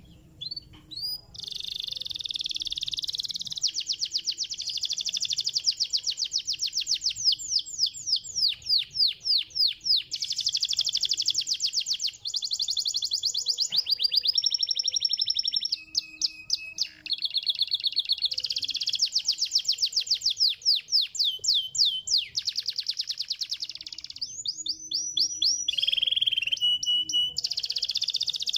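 Domestic canary singing a long, fast song of rapid trills and rolls, high-pitched, changing from one trilled phrase to the next every few seconds with brief pauses between.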